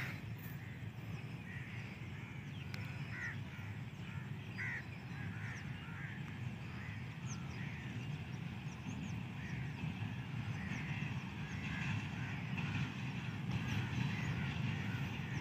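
Birds chirping and calling over the low rumble of an approaching diesel locomotive hauling a coal train, the rumble slowly growing louder.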